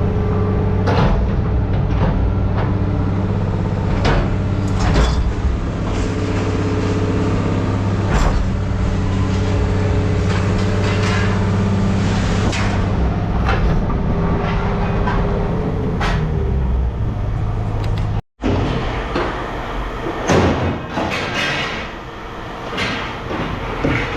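A vehicle engine running steadily, with scattered sharp metal clanks and knocks over it. The engine sound stops at a short break a little past halfway, and clanks and knocks carry on after it.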